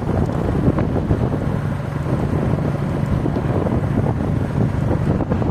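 Motorcycle engine running at a steady cruising speed with heavy wind rushing over the microphone while riding.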